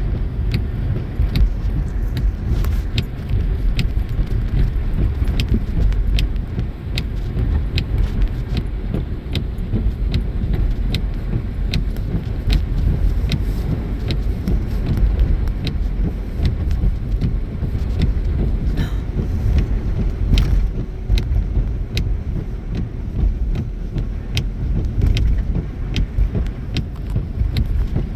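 Steady low road rumble inside a moving car's cabin, with scattered light clicks and rattles throughout.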